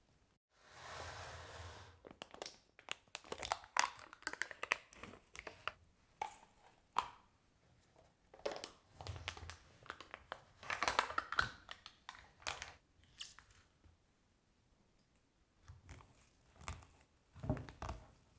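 Close-up handling sounds of baking preparation: rustling, crinkling and tearing, like packaging or paper being handled. These come in irregular bursts of small clicks and scrapes, with a pause a few seconds before the end.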